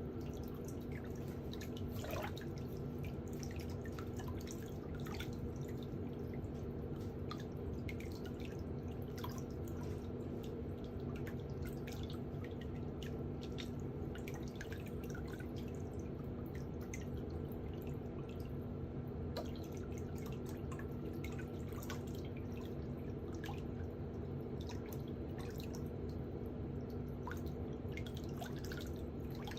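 Water dripping, with many small scattered drops over a steady low hum.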